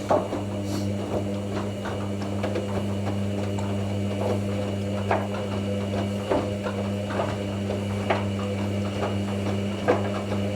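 Hoover NeXtra washing machine filling: a steady mains hum, typical of the water inlet valve, with water running into the drum and scattered light clicks and knocks. The hum cuts off suddenly at the end as the fill stops.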